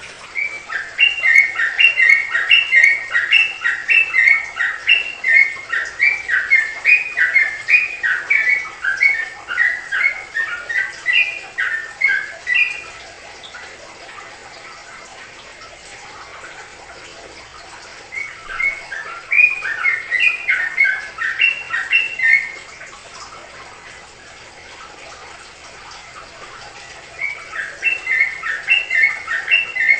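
Yellow-vented bulbul (trucukan) singing its rapid, chattering ropel song: a long bout of quick, clear notes, a pause, a shorter bout, and another bout starting near the end.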